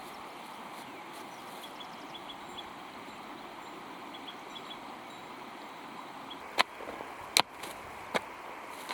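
Sharp strikes of a hand tool, about one every 0.8 seconds, starting about two-thirds of the way through, the second a quick double hit. Behind them is a steady rural background with faint, short high chirps.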